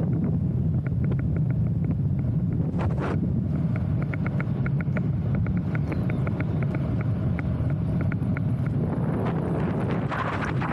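Wind buffeting the microphone in a steady low rumble, with a run of light, even ticks, about five a second, through most of it.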